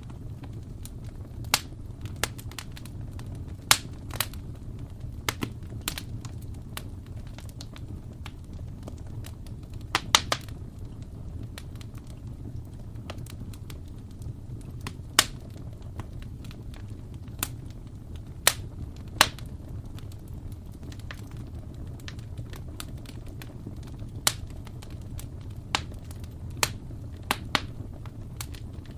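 Wood fire crackling: sharp irregular pops and snaps, a few every several seconds, over a steady low rumble of the burning fire.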